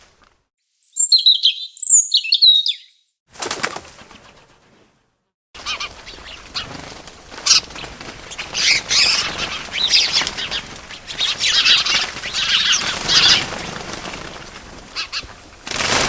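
A bird chirping a few short high notes, then, after a brief silence, repeated bursts of wings flapping and rustling that go on to the end.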